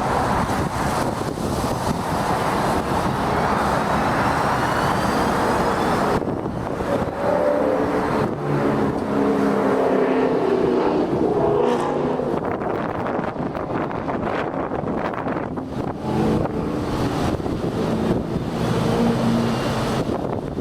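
Ryko Soft Gloss Maxx 5 in-bay automatic car wash machinery running, a steady loud rush. A pitched motor hum joins about six seconds in.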